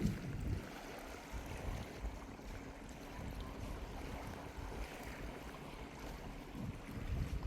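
Gentle sea waves washing on the shore with a steady hiss, and sea breeze gusting on the microphone in low rumbles, with a low bump right at the start.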